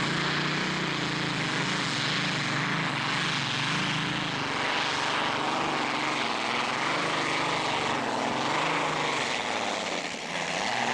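Modified pulling tractor's engines running at full throttle under load during a pull, the pitch wavering up and down, easing off about ten seconds in.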